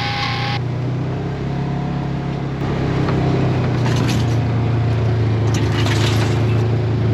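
Side-by-side UTV engine running steadily as it drives along, getting a little louder about two and a half seconds in.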